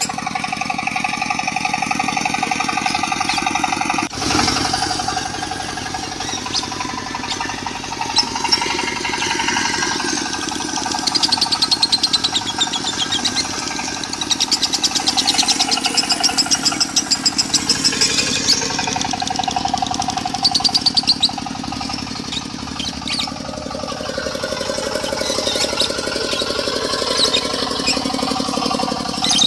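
Lovebirds chattering in fast, high, rapid-fire trills over a steady, rhythmic diesel engine running, with a sudden break in the sound about four seconds in.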